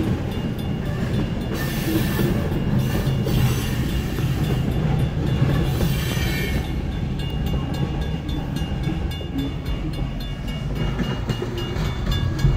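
Freight train's covered hopper cars rolling past at close range: a steady low rumble of steel wheels on rail, with brief hissy surges about two and six seconds in.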